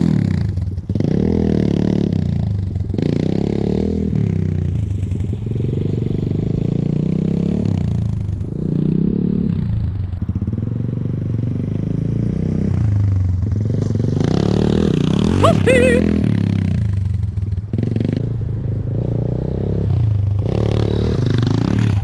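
Enduro motorcycle engine revving up and dropping back again and again as the bike is ridden slowly over obstacles and up a climb. A short, warbling high squeal comes through about fifteen seconds in.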